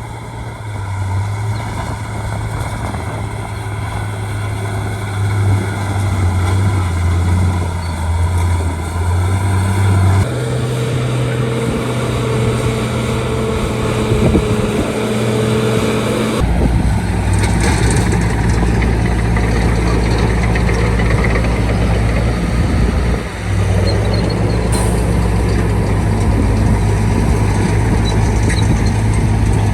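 Shantui D95 crawler bulldozer's diesel engine running steadily at work, with a low engine drone. The sound changes abruptly twice, about ten and sixteen seconds in.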